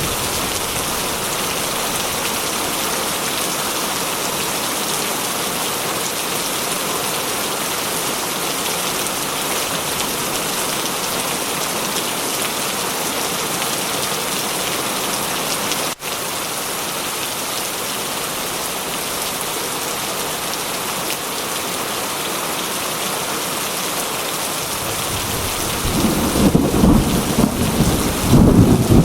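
Heavy rain falling steadily as an even hiss, with a momentary dropout about halfway. Thunder rumbles in low and loud a few seconds before the end.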